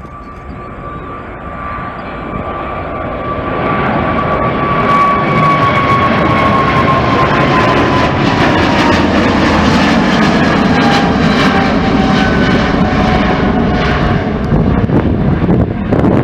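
Jet airliner passing close by. The engine whine slides steadily down in pitch as it goes past, over a rushing roar that builds over the first few seconds and then stays loud.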